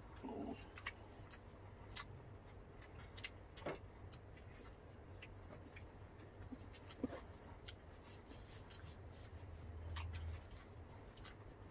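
Quiet eating sounds: scattered soft clicks and smacks of chewing, several a second, over a steady low hum.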